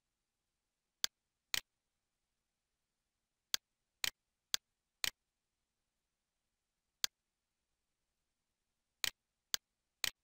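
Computer mouse clicks: about ten short, sharp clicks, several coming in pairs half a second apart, with silence between them.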